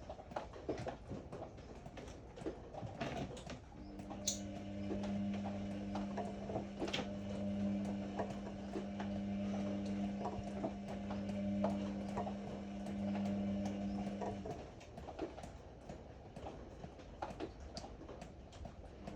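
Ariston AML125 washer-dryer running: its drum motor starts a steady hum about four seconds in, runs for about ten seconds and stops, over irregular clicks and knocks.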